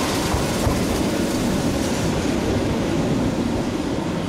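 Keihan 600-series two-car train running away after passing, its wheels rumbling on the rails and slowly fading.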